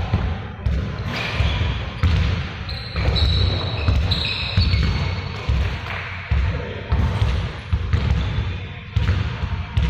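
Basketballs bouncing on a hard court, with repeated heavy thuds about once or twice a second and short high sneaker squeaks in between.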